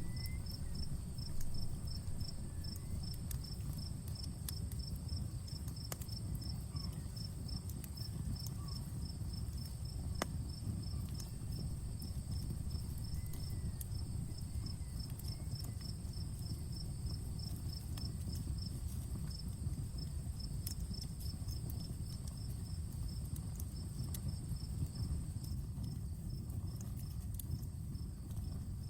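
Crickets chirping steadily, about four chirps a second, over a continuous high insect trill. Under them a campfire crackles with scattered sharp pops over a low steady rumble.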